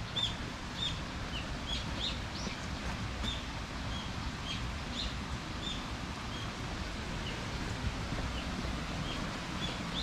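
Small birds chirping in short calls, one or two a second, some rising in pitch, over a steady low rumble.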